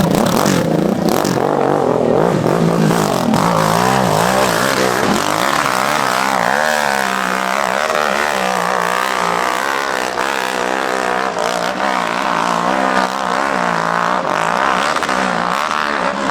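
Dirt bike engine revving hard, its pitch rising and falling over and over as the throttle is worked on a steep hill climb.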